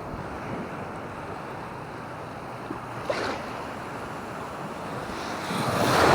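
Surf washing on the beach with wind buffeting the microphone; the wash swells louder toward the end.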